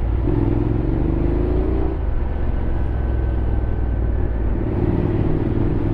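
Honda X-ADV 750's parallel-twin engine running under way, over a steady low rumble of wind and road noise. Its note climbs gently twice, early on the first time and again near the end.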